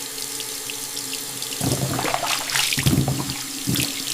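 Water running from a tap into a sink, steady at first, with irregular splashing starting partway through.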